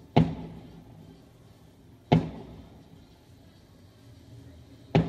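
Three aerial firework bursts going off, sharp bangs about two and three seconds apart, each trailing off in an echo.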